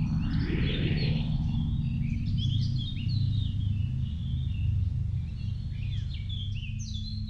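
Small songbirds chirping and singing in quick, overlapping phrases over a steady low hum. In the first second and a half a whooshing sweep falls in pitch.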